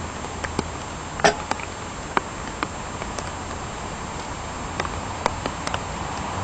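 Light rain falling steadily, with scattered sharp ticks and cracks; the loudest crack comes a little over a second in.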